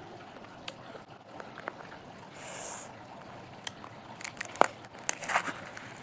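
Close-miked biting and chewing of crunchy food: scattered small crunches, then a burst of loud crunches in the second half. A brief hiss comes about halfway through.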